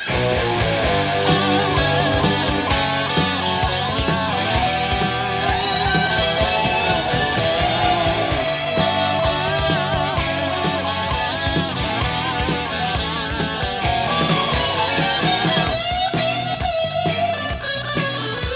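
Late-1970s hard rock band playing an instrumental opening, led by electric guitar over a steady beat. The music starts abruptly out of silence at the very beginning.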